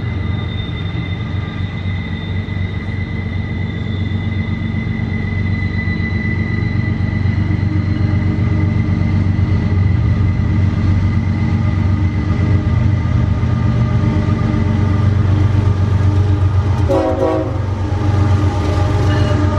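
Diesel locomotive of a CSX intermodal freight train approaching, its low engine drone growing louder as it nears. A short horn sounds about three-quarters of the way through.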